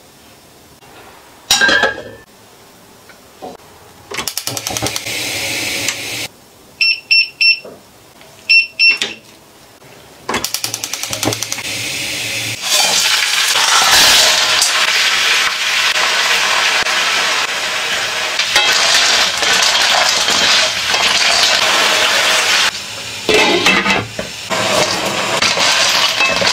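Sea snails (babylon snails) hit hot chili oil in a wok and sizzle loudly and steadily for about ten seconds. Near the end a wooden spatula scrapes and tosses them in the pan. Earlier come a click and a few short beeps.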